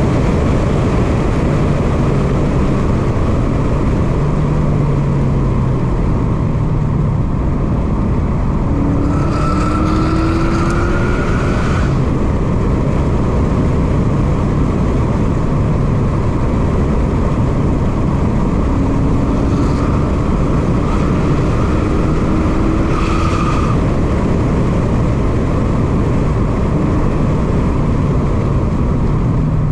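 Subaru WRX STI's turbocharged flat-four engine and road noise heard from inside the cabin while lapping a race track. Loud and steady, with the engine pitch climbing under acceleration twice.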